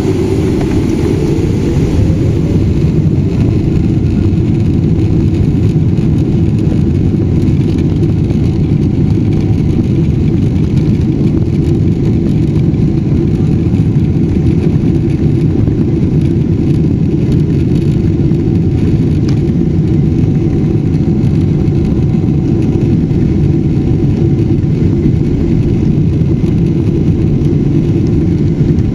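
Boeing 777-300ER's GE90 jet engines spooling up for takeoff: a whine rises over the first few seconds, then a loud, steady, low rumble of the engines and takeoff roll.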